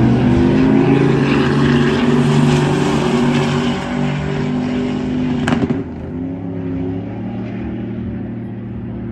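Vehicle engines running loudly, with several steady engine tones held together, strongest in the first half. A sharp pop about five and a half seconds in, after which the engines are quieter.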